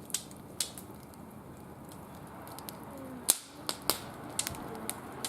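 Wood fire burning in a barbecue grill, crackling with sharp, irregular pops of varying strength, the loudest a little over three seconds in.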